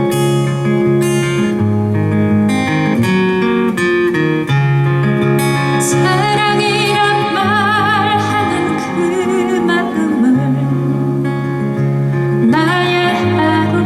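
Acoustic guitar strumming chords through an instrumental interlude of a live ballad. A wavering melody line with vibrato rises over it in the middle and again near the end.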